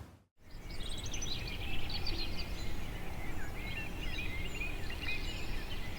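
Several songbirds chirping and singing over a steady low outdoor background hiss. The ambience fades in after a brief silent gap right at the start.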